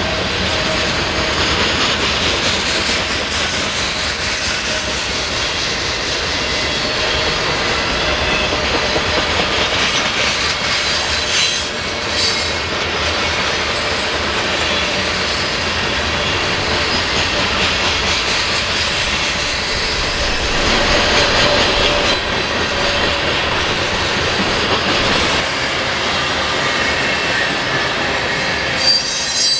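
A train rolling past on the rails: a steady, loud rumble and rush of steel wheels, with clickety-clack over the rail joints and faint high-pitched wheel squeal.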